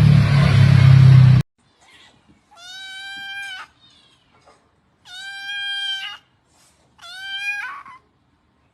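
A loud noisy hum cuts off abruptly about one and a half seconds in. Then a domestic cat meows three times, each meow about a second long and held at a fairly steady pitch.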